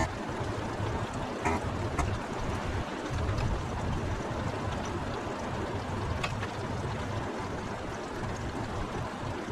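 Heavy rain falling steadily, a constant hiss with an uneven low rumble, with a few faint sharp clicks.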